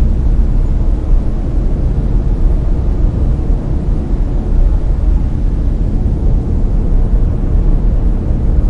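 Layered brown noise: steady, even random noise, heaviest in the deep lows and thinning toward the highs, with no tones or events in it.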